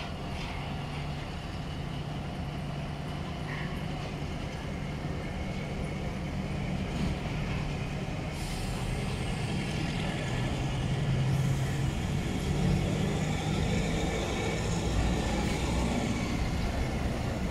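A passenger train running slowly behind a ZCU-20 diesel-electric locomotive, heard from the coach: a steady low drone of engine and rolling stock that grows gradually louder, with faint steady higher tones over it.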